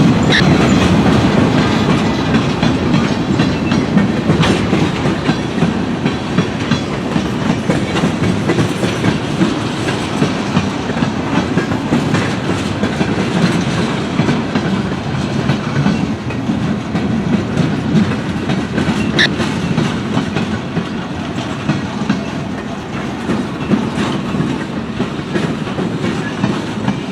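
Train cars rolling past at close range, their wheels clacking steadily over the rail joints.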